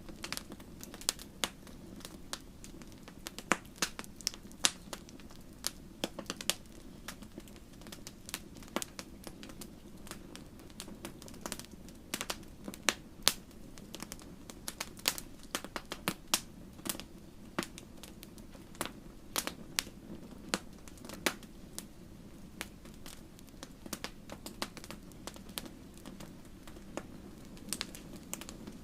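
Wood fire in a fireplace crackling, with frequent sharp irregular pops and snaps over a steady low rumble of burning.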